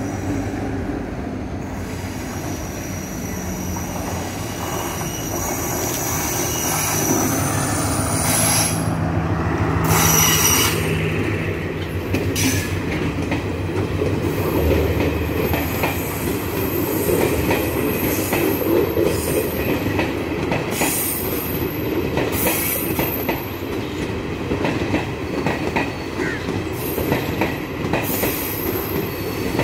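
Sri Lanka Railways diesel multiple unit (power set) passing on a curve. High-pitched wheel squeal comes and goes over the steady rumble of the coaches, with wheels clicking over rail joints and a low drone in the first third.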